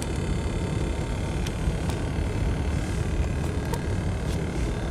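Steady road and engine noise of a moving tour vehicle heard from inside its cabin, with a few faint clicks.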